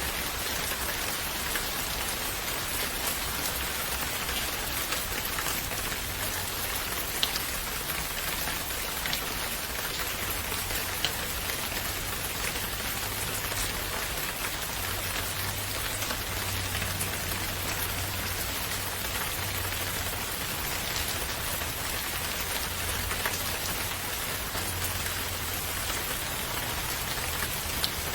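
Steady rain falling, an even hiss with scattered drops tapping close by, over a faint low rumble.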